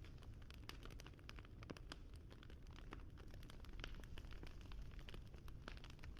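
Wood fire crackling: a steady low rumble with many small, irregular pops and snaps, several a second.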